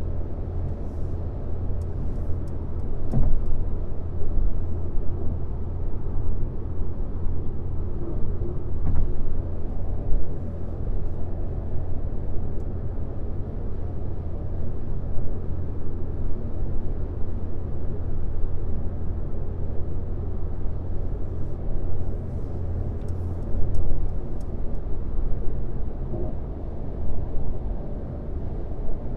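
Steady low road rumble of a car driving at highway speed, tyre and engine noise heard from inside the cabin, with a few faint ticks.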